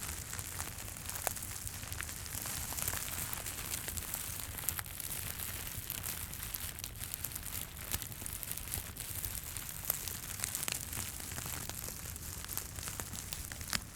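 Continuous crinkling and rustling, dense with small clicks, over a low crackle of fire; the crinkling eases off right at the end.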